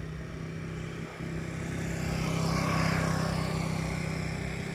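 Electric RC model plane's brushless motor and propeller whine passing by, swelling to its loudest about three seconds in and then fading, over a steady low hum.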